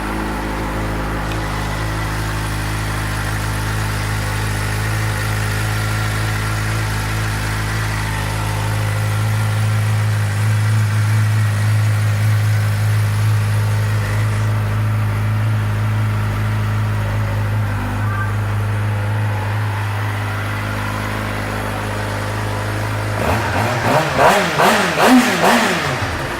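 Stock 2015 Suzuki GSX-R600's inline-four engine idling steadily through its stock exhaust. Near the end it is blipped several times in quick succession, each rev rising and falling, then settles back to idle.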